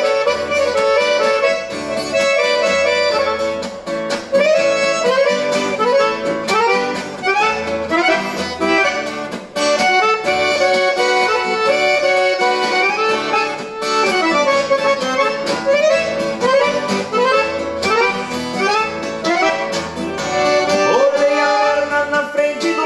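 Accordion playing the melody of an instrumental break in a gaúcho song, over guitar accompaniment with a steady bass beat.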